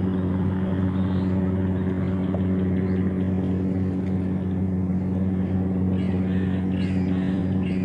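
An engine running at a steady, unchanging speed, making a constant low hum. A few short, higher sounds come in near the end.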